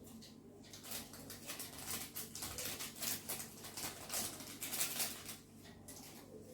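Eating sounds at a noodle meal: a quick, irregular run of small clicks and smacks from chewing and handling spicy ramen.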